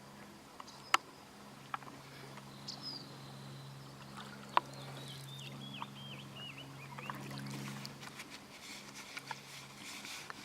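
Canoe on the water, with two loud, sharp knocks of a paddle against the hull and water noise that grows towards the end. A bird calls a run of short falling notes in the middle, over a steady low hum.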